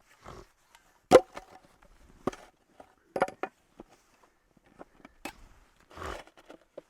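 Dead wood being handled: a few irregular sharp knocks and cracks of sticks and branches, the loudest about a second in, with softer crunching sounds between them.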